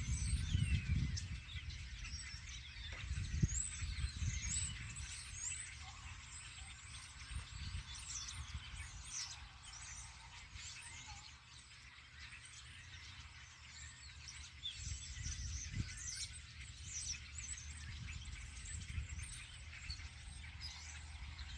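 Several birds chirping and singing in a busy, overlapping chorus, over a low, uneven rumble that is loudest in the first few seconds.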